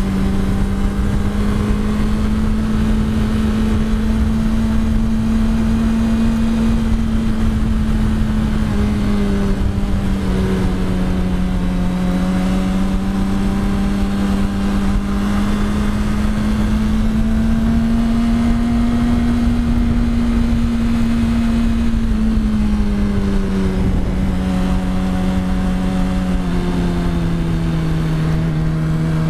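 Yamaha R1's inline-four engine running under way at a fairly steady speed, its note rising a little in the middle and dropping twice in the second half as the throttle is eased.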